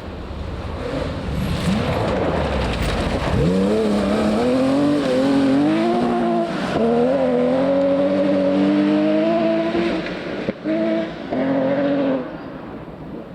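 Rally car engine at full throttle: the note sweeps up sharply a few seconds in, then climbs and drops in steps as it changes gear, lifts off briefly near the end with a couple of short bursts of throttle, and fades away.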